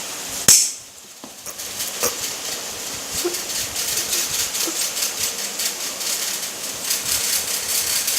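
A sharp snip about half a second in as the leftover copper fuse wire is cut off, followed by a run of small clicks and taps from the wire and fuse carrier being handled.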